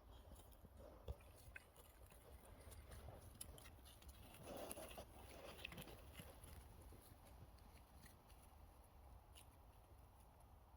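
Near silence: faint scattered ticks and rustling over a low hum, a little louder about halfway through.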